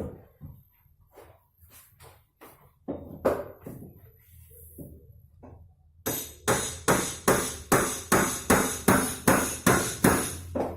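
Sharp knocks from tool work on a sofa being re-upholstered: a few scattered strikes, then from about six seconds in an even, fast run of about a dozen strikes, roughly three a second.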